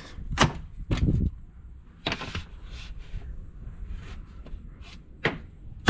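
A metal swing-out tool case under a pickup's bed-mounted tool box being handled and swung, giving a handful of separate knocks and clunks, the loudest near the end.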